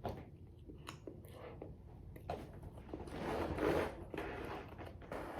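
Close-up eating sounds: chewing a fried chicken sandwich, with small clicks and a longer, louder noisy stretch about three seconds in.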